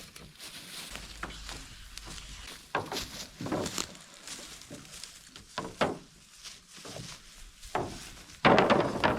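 Scattered wooden knocks and thuds of lumber being handled and set down during carpentry work, with a louder burst of clattering about eight and a half seconds in.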